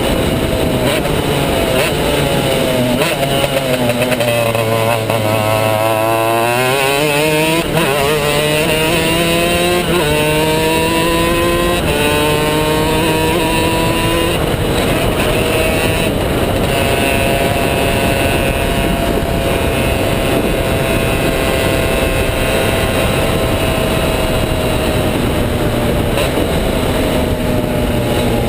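Two-stroke superkart engine at racing speed. It slows with its pitch falling, then accelerates hard through several gear changes, the pitch climbing and dropping back at each shift. It then holds a high steady note and eases off near the end.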